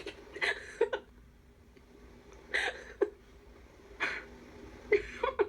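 A person's breathy, wheezing laugh in four short gasping bursts, each a puff of hiss with a brief voiced catch.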